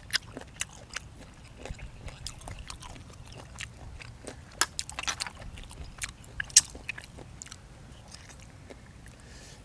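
A person chewing and biting food up close, with irregular sharp crunches and clicks, the loudest about four and a half and six and a half seconds in.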